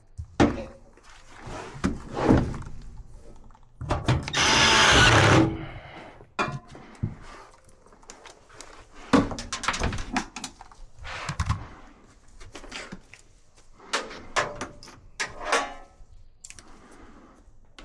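Knocks, clunks and clicks of hand work on a dryer cabinet during repair, with a loud whirring burst of a power tool lasting about a second and a half, about four seconds in.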